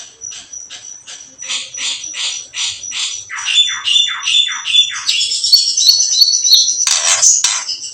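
Songbird chattering calls of the 'kretekan' kind used to provoke birds: sharp falling chirps repeated about three a second over a steady high ringing tone. About five seconds in they give way to a dense, fast high trill, broken near the end by two harsh squawks.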